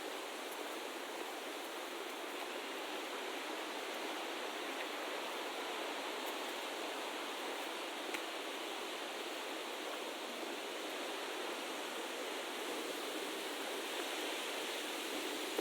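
Steady, even rushing of running water, with a faint click about eight seconds in.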